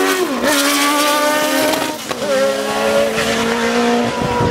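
Racing car engine running hard past the microphone, its pitch dipping sharply twice, about half a second in and again about two seconds in, then holding steady, with some tyre squeal.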